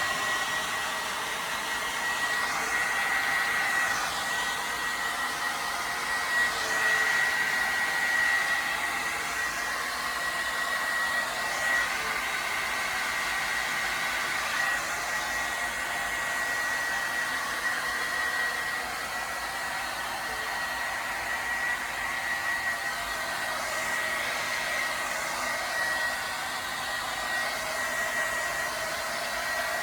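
Handheld hair dryer running steadily: a continuous blowing rush with a steady high whistle held on one pitch.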